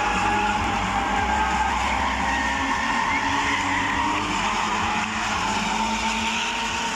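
Stunt car engine running under load with tyres squealing in a sustained, steady squeal during a stunt run.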